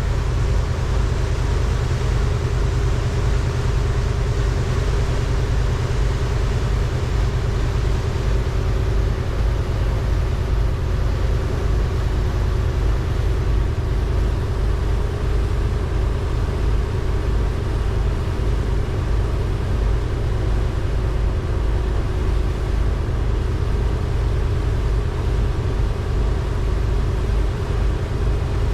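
Passenger ferry's engines running steadily at slow speed as it comes into port: a constant low rumble with a steady hum.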